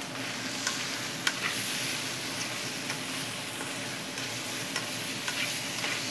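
Pasta, chicken, spinach and tomatoes sizzling in olive oil in a hot pan while being stirred, with scattered light clicks of the utensil against the pan.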